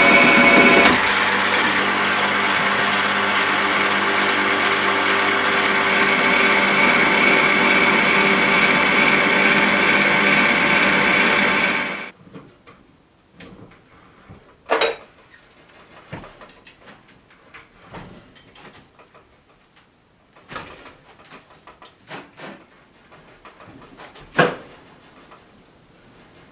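Sandblasting rig running: a steady machine drone with a rushing hiss. It drops slightly about a second in and cuts off suddenly about halfway through. Afterwards there are only a few light knocks and clicks.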